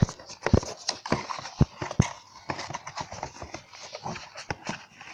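Cardboard box and plastic packaging of a model car being opened by hand: irregular sharp clicks and knocks with rustling in between.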